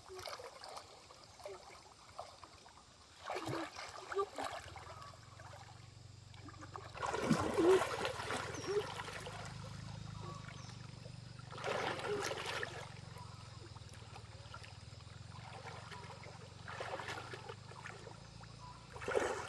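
Water splashing in a shallow stream, in irregular bursts a few seconds apart, the biggest about seven to nine seconds in, with a faint steady low hum underneath from about then on.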